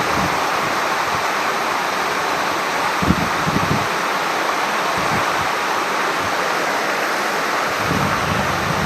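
Mountain stream water rushing steadily, with wind buffeting the microphone a little after three seconds in and again near the end.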